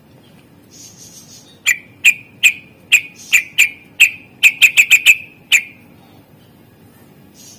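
Greater green leafbird (cucak ijo) calling: about a dozen sharp, loud chip notes, quickening into a rapid run just after the middle and ending with one last note, with a soft raspy hiss before the first notes.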